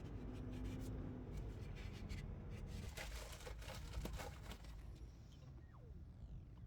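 Faint handling noises, light clicks and scrapes, mostly about three to four seconds in, over a low steady hum.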